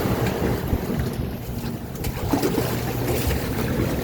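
Wind buffeting the microphone and rough sea rushing around a ship under way in big waves, over a low steady drone.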